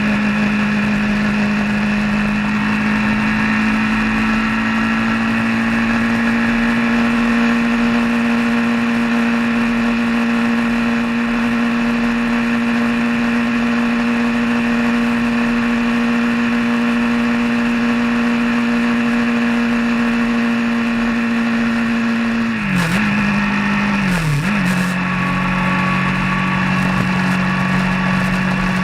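A vehicle engine running steadily at road speed, its note holding even. Near the end it dips twice in quick succession and settles at a lower pitch, as with two gear changes.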